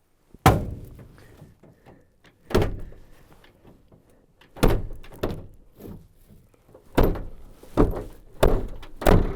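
A truck-bed camper's hatch being worked and pulled shut from inside: a series of about eight heavy thuds and knocks at uneven intervals, with handling rustle between them.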